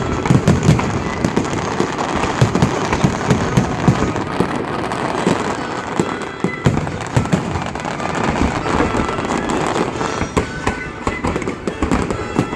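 Fireworks display going off in quick succession: a dense, unbroken run of booms and crackling reports, many per second.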